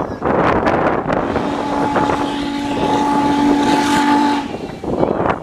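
A steam locomotive whistle (N&W 611's) sounds one long chord-like blast from about two seconds in until shortly before the end. Wind buffets the microphone from the moving train throughout.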